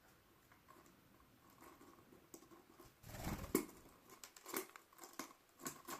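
Faint, scattered small clicks and crackles of canaries pecking at and cracking seed, with a louder rustle and bump about halfway through.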